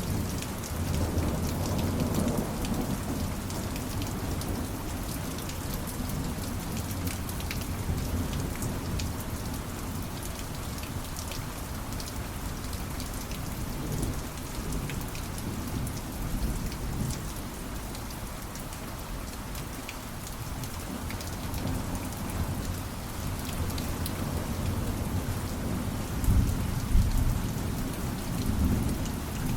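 Steady heavy rain falling on surfaces, with the patter of individual drops, and low rolling thunder rumbling beneath it, swelling about two seconds in and most strongly near the end.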